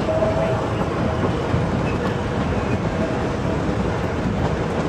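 Narrow-gauge train running steadily, heard from aboard one of the cars behind its 1947 Porter diesel-electric locomotive.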